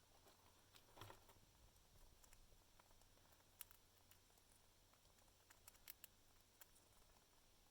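Faint, scattered small clicks and crackles, irregularly spaced, from a red squirrel gnawing and cracking peanut shells.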